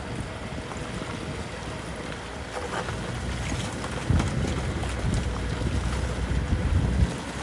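Komatsu D37P crawler bulldozer's diesel engine running, getting louder about four seconds in and easing near the end, with wind buffeting the microphone.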